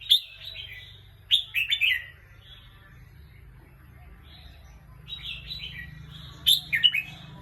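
Red-whiskered bulbul singing: short phrases of quick, falling whistled notes, loud at the start, again about a second and a half in and near the end, with softer warbling between. A steady low hum lies underneath.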